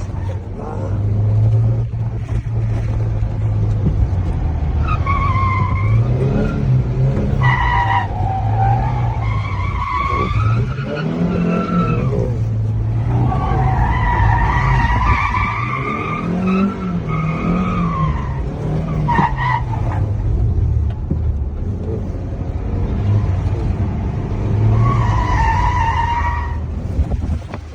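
Suzuki Carry mini truck's engine running steadily under load while its tyres squeal in drawn-out, wavering screeches, about six times over, as it drifts with its rear differential locked.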